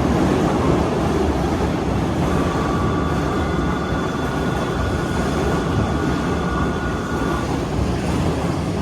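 Hanshin 5550-series electric commuter train pulling into a station, a dense, steady rumble of wheels and running gear. A steady high-pitched squeal starts about two seconds in and stops about seven seconds in.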